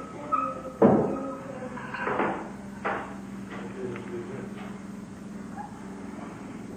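Three sharp knocks or bangs, the loudest about a second in and two lighter ones about two and three seconds in, followed by a steady low hum.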